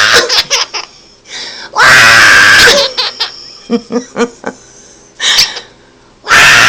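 Quaker parrot giggling in short choppy bursts that sound like a baby laughing. Loud, noisy, silly sounds made by a person come before and after the giggles.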